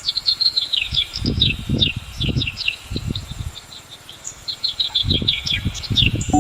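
Countryside ambience of many quick chirping calls that drop in pitch, over a faint steady insect trill, with low rumbles coming and going.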